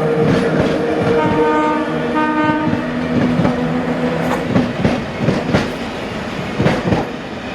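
A train rolling past with a steady machine hum, its wheels clicking over rail joints about twice a second from about three seconds in.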